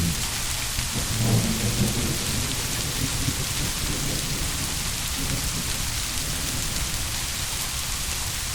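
Steady heavy rain, with a soft, low roll of distant thunder about a second in.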